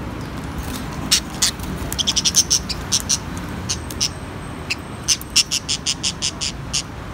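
Budgies chirping: many short, high-pitched chirps in quick runs, thickest about two seconds in and again from about five seconds.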